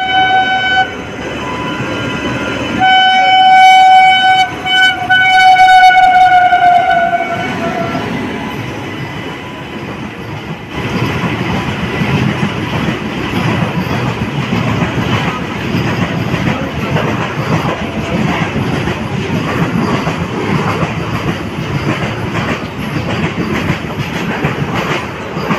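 Indian Railways electric locomotive sounding its horn, a short blast then a long one whose pitch sags near its end. From about ten seconds in, the locomotive and its coaches run through the station without stopping, wheels clattering rapidly over the rail joints.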